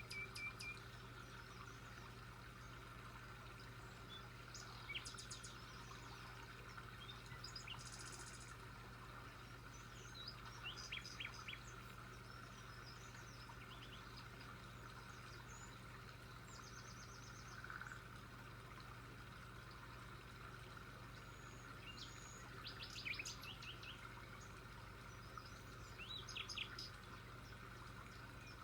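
Several birds chirping and calling with short, scattered trills and tweets, over a faint steady background hum.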